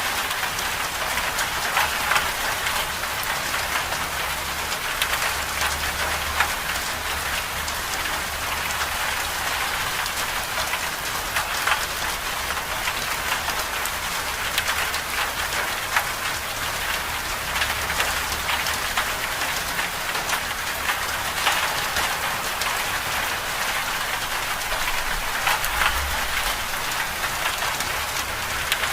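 Winter storm ambience: a steady hiss of precipitation with many small pattering ticks, over a faint low rumble.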